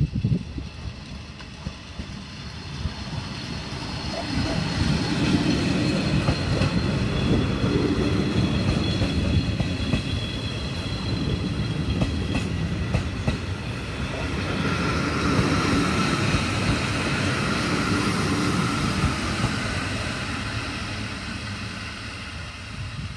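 Trenitalia ALe 642 electric multiple unit running past on the main line: the rumble builds over the first few seconds, the wheels clatter over the rail joints as the cars go by, with a steady high whine in the second half, and it fades as the train moves away near the end.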